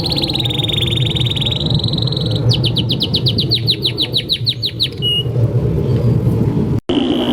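Domestic canary singing long, fast trills of rapidly repeated notes. About two and a half seconds in it switches to a slower rolling phrase of about seven notes a second. Under the song runs a steady low background hum, and near the end the sound drops out for an instant.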